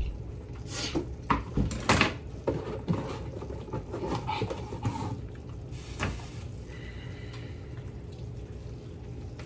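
Kitchen clatter: pots, dishes and utensils knocking and clinking about a dozen times, settling near the end into a steady low hum.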